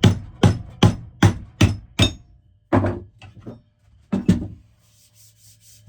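Hammer blows on an axe being hung on its wooden handle: a steady run of about two and a half strikes a second, then a few slower, spaced strikes that stop about four and a half seconds in.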